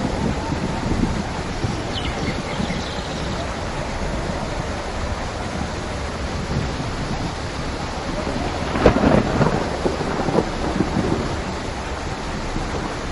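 Steady rain with thunder rumbling, swelling to a louder peak about nine seconds in.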